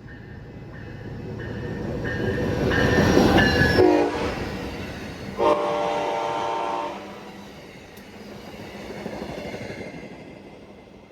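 A train passing with its locomotive air horn sounding. The rumble builds to a peak about three to four seconds in, where the horn's pitch drops as it goes by. A second steady horn blast of about a second and a half follows, then the rumble fades with a smaller swell near the end.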